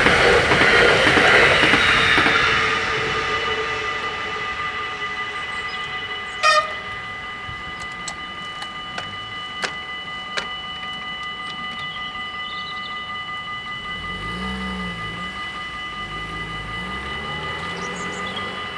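NS Sprinter Lighttrain electric train running past over the level crossing, its rumble fading away over the first few seconds, while the crossing's warning bells ring steadily. A sharp clunk about six seconds in and a few light ticks follow, and a car engine pulls away near the end.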